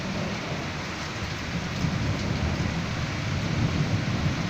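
Heavy rain pouring down in a severe storm, with a low, fluctuating rumble underneath.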